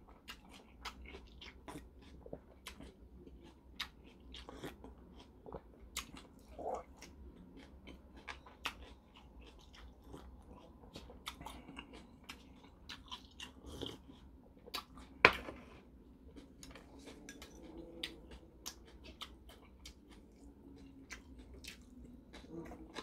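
A person chewing and eating with many small, sharp wet mouth clicks at an irregular pace, and one louder sharp click about fifteen seconds in.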